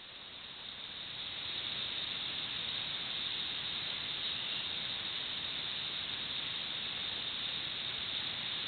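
Campfire hissing steadily, swelling over the first second or so and then holding level.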